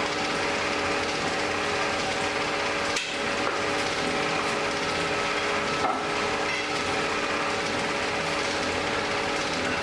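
Blacksmith's forge fire burning: a constant rushing noise with a steady hum under it, and a couple of faint knocks about three and six seconds in.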